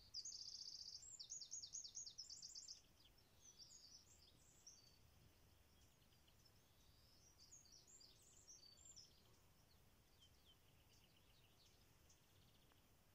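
Birds singing faintly: quick, high chirping phrases for the first few seconds, then softer, scattered calls.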